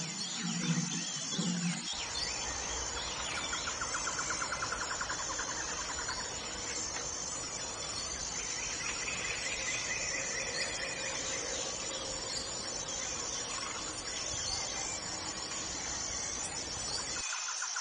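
Small songbirds chirping and twittering, with fast repeated trills a few seconds in and again near the middle, over a steady outdoor background that changes abruptly about two seconds in.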